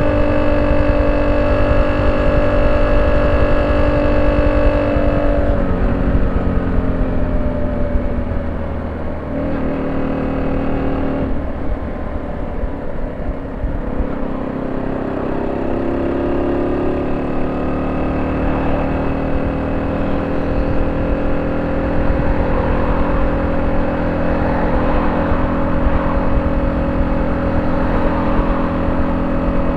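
Honda C70's small single-cylinder four-stroke engine running through a banana-style ('pisang') exhaust muffler, held at a steady speed, easing off about five seconds in, then picking up again from about fourteen seconds and holding steady.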